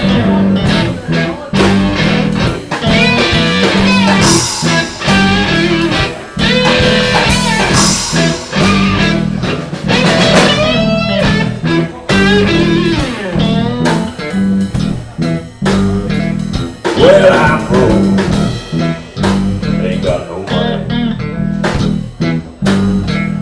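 Live blues-rock band playing an instrumental break, an electric guitar lead with bending notes over bass and drums.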